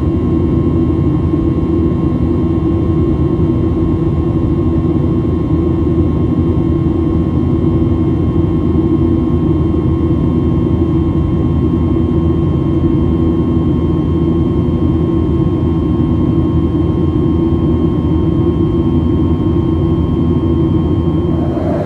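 Boeing 737-800 cabin noise: a steady drone of jet engines and rushing air, with several faint steady whining tones over it. The sound changes abruptly right at the end.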